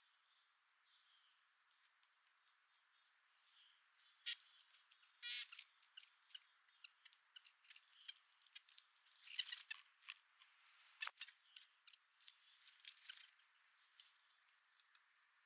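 Faint, irregular tapping and clicking of small birds pecking and handling seed at a feeder, with a few brief chirps.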